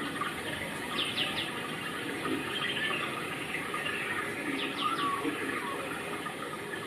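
Small birds chirping against a steady background hiss, with two quick runs of three falling calls, one about a second in and another just before the five-second mark.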